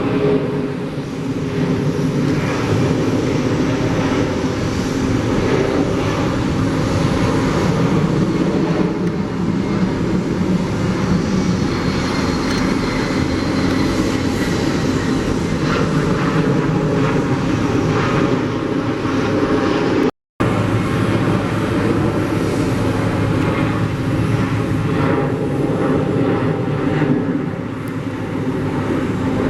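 Jet airliner engine noise, a loud, steady rush that drops out briefly about 20 seconds in.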